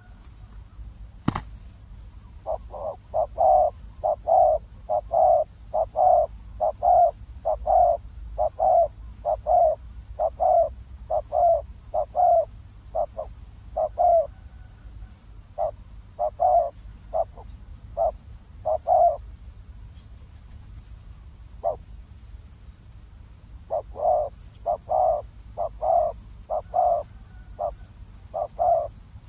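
Spotted doves cooing: long runs of low, quick coo notes that stop for a few seconds past the middle and start again near the end. A small bird's faint high chirps repeat in the background, and a single sharp click sounds about a second in.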